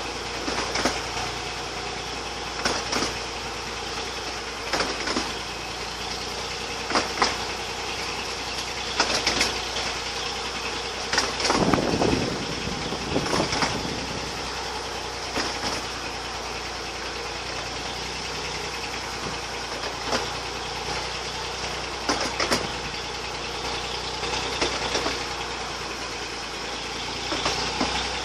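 A 15-inch gauge miniature railway train rolling along the track, heard from an open carriage: a steady running noise with a sharp click about every two seconds, and a louder rumble about halfway through.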